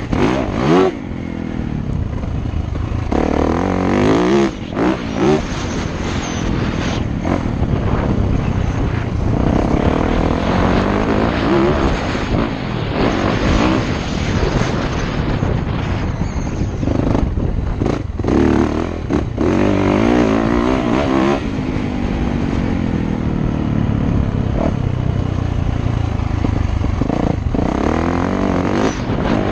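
Dirt bike engine revving hard and easing off again and again. Its pitch climbs in sweeps and drops back, with several short cuts in the sound.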